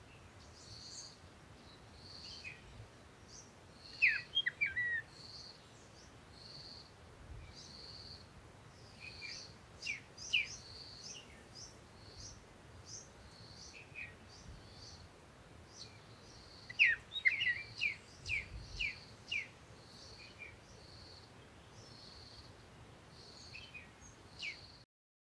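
Birds chirping: a short high note repeated about once a second, with quick clusters of falling chirps three times, over a faint steady background hiss. The sound drops out briefly near the end.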